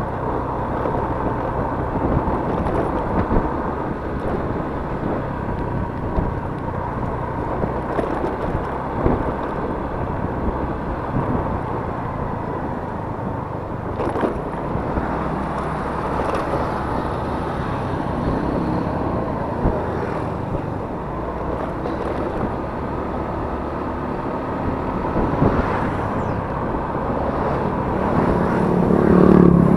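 Yamaha Mio S 125 cc scooter engine running steadily under way, mixed with a constant rush of riding noise. A louder low rumble swells up near the end.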